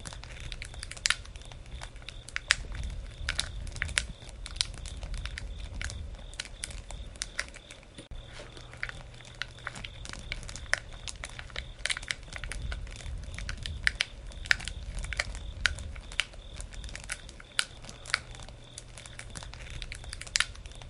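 Wood campfire crackling, with irregular sharp pops and snaps several times a second over a low steady rumble of the flames.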